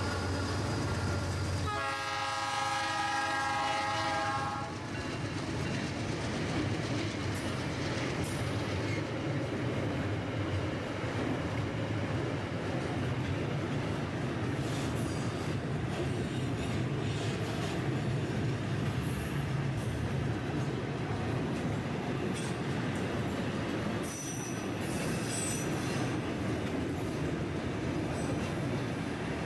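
Freight train passing: the locomotive sounds its horn in one chord blast lasting about two and a half seconds, starting about two seconds in. The wagons then keep rolling over the rails with a steady rumble, clicks and brief wheel squeals.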